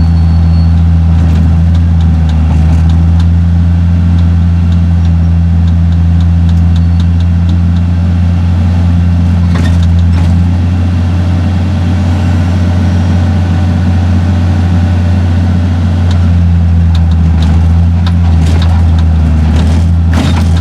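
John Deere 6068 inline-six diesel engine in a Fabtek 153 harvester, running steadily at idle with a deep, even hum. It is being run up to operating temperature after a thermostat replacement.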